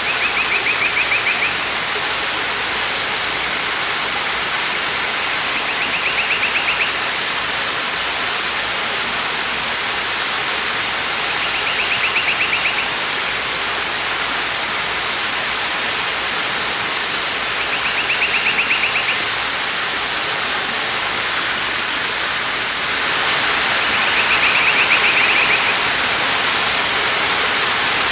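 Waterfall rushing steadily. A short, rapid, buzzy trill that sounds like a bird repeats about every six seconds, five times in all. The rush gets a little louder near the end.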